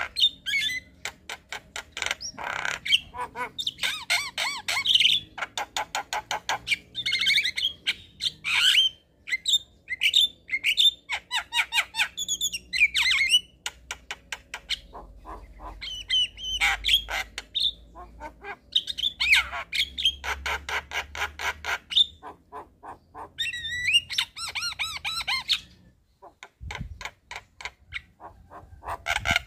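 Javan myna singing in a chattering stream of harsh squawks, fast clicking rattles and short whistled notes, coming in bursts with brief pauses.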